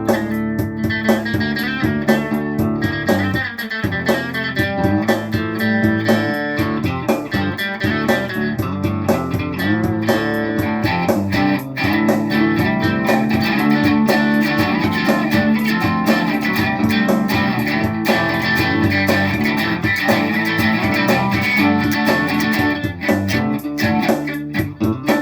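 Instrumental rock music led by guitars, an electric guitar playing over strummed chords with a steady beat.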